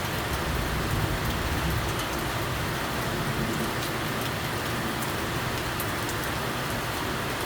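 Steady rain falling, a dense even hiss with the patter of individual drops ticking on surfaces.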